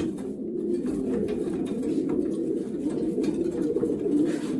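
Racing pigeons cooing in the loft: many overlapping low coos running on steadily with no break.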